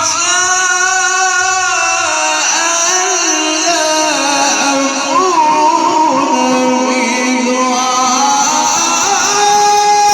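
A male reciter chanting the Quran in the melodic tajweed style, amplified through a sound system. He holds long notes and ornaments them with wavering trills.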